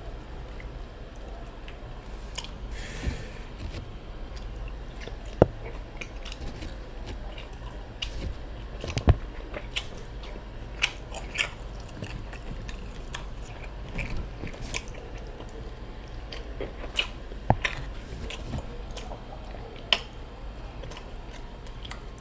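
Close-miked chewing and biting of food, with a few short sharp clicks scattered through.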